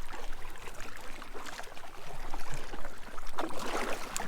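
Kayak paddle strokes splashing and water trickling around an inflatable kayak, with a stronger splash near the end.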